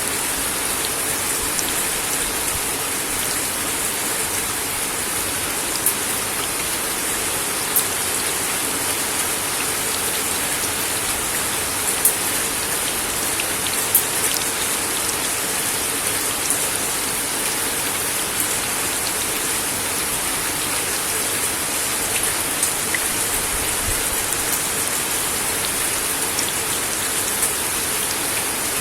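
Steady rain falling on a wooden deck, a constant hiss with scattered louder drips.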